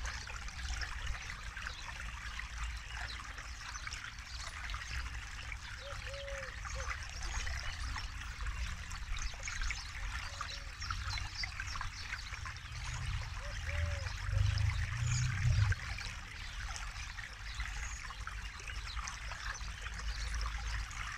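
Forest river flowing and babbling over stones, a steady dense trickle and splash of water. A low rumble swells briefly about two-thirds of the way through, and a few small gurgles come through now and then.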